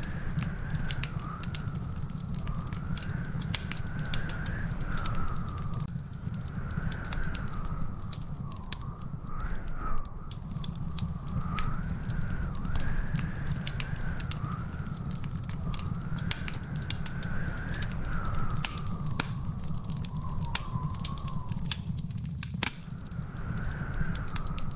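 Wood fire crackling in a fireplace: frequent irregular sharp pops over a steady low rumble, with a faint whistle-like tone slowly wavering in pitch.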